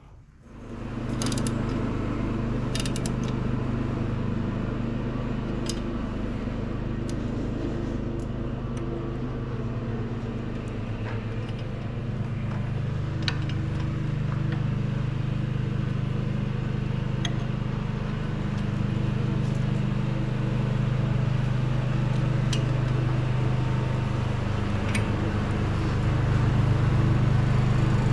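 Lawn mower engine running steadily, coming up about a second in, its speed shifting slightly a couple of times, with a few light clicks over it.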